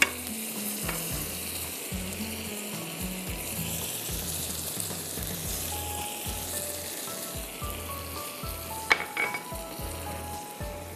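Food frying in a hot pan with a steady sizzle, and one sharp clink of a utensil about nine seconds in.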